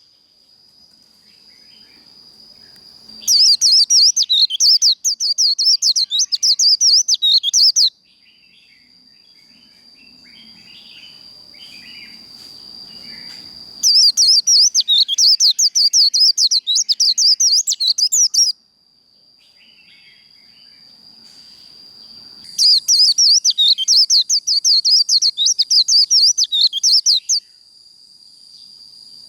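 White-eye (vành khuyên) singing its fast twittering 'líu' song in three bursts of about four to five seconds each, starting about three seconds in, near the middle, and about three-quarters through. Between the bursts a steady high thin tone goes on.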